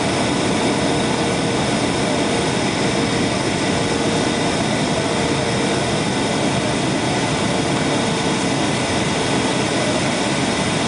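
Jet airliner cabin noise during touchdown and the landing roll: a steady loud rush of engine and air noise with faint steady whining tones, holding level throughout.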